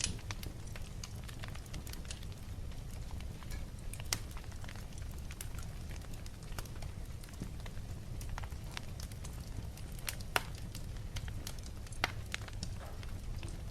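Wood fire burning in a fireplace, crackling with scattered sharp pops over a steady low rumble; two louder pops come about ten and twelve seconds in.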